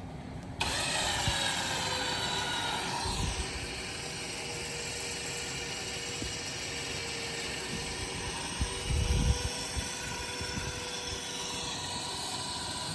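Recovery winch switching on about half a second in and running steadily with a whine while it reels in its synthetic rope and drags the car. Low thumps come around three and nine seconds in as the car moves.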